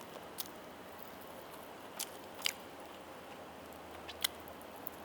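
Close-miked chewing of roast chicken: four sharp mouth clicks and crunches in about five seconds, over a faint steady hiss.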